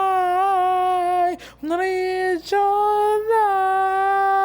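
A high-pitched voice singing long, held notes with a slight waver, breaking briefly about a second and a half in and again near the middle before holding one long note.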